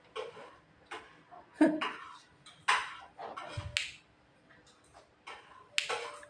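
Javan myna making a string of short, irregularly spaced clicks and brief chirps.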